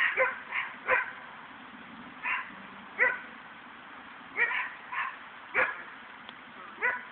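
A bird giving short, sharp squawking calls, about a dozen at irregular intervals.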